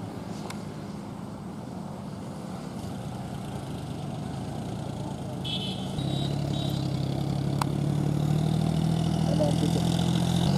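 Diesel tractor engine running steadily and growing louder, with a step up in its low note about six seconds in.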